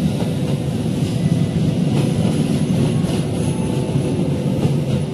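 Passenger train coaches rolling past close by: a steady rumble of steel wheels on the rails, with a few clacks over rail joints.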